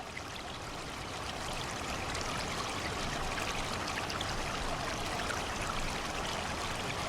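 Flowing stream water, a steady babbling rush with fine trickling detail, fading in over the first couple of seconds.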